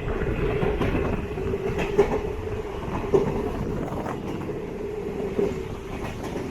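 DEMU train running along the track, heard from on board: a steady rumble with a droning hum and wheels knocking over rail joints, the sharpest knocks about two and three seconds in.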